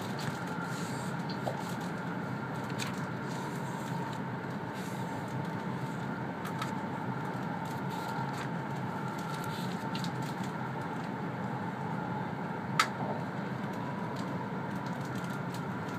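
Steady running noise of an E2 series Shinkansen heard inside the passenger cabin: a low rumble with a faint steady high tone over it. A few light clicks, and one sharp click about three-quarters of the way through.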